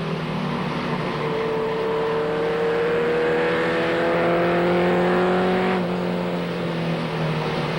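Race truck engines running at speed on an oval track. The pitch rises slowly for several seconds, then drops about six seconds in, as the engines come off the throttle.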